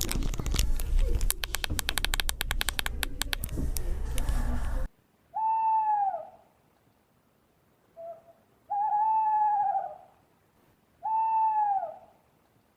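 A loud crackling, clicking noise that cuts off abruptly about five seconds in. Then a bird hooting: three long arched hoots, each about a second, with short soft notes between them.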